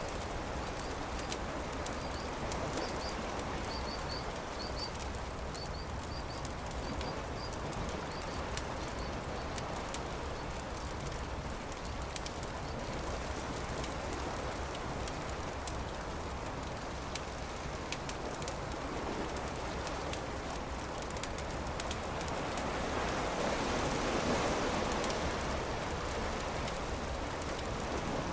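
Campfire crackling with scattered small pops over a steady wash of surf; the surf swells louder a little before the end. A bird gives a run of short chirps during the first several seconds.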